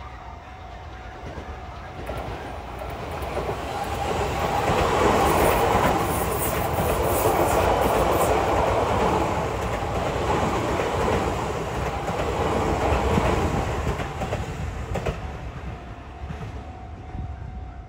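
Sotetsu Main Line electric commuter train passing. Its rumble builds over a few seconds, stays loud for about eight seconds with a run of sharp wheel clicks over the rail joints, then fades away.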